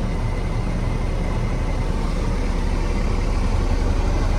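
Caterpillar C7 inline-six diesel in a Peterbilt 335 idling with a steady low rumble.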